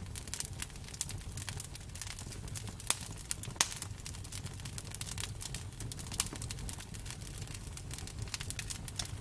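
Campfire burning: irregular crackling and popping over a steady low rumble of flames, with two louder snaps about three seconds in and half a second later.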